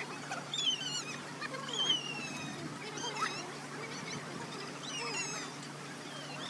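Birds calling: a scatter of short, high, chirping calls, several of them sliding down in pitch, over a steady low hum.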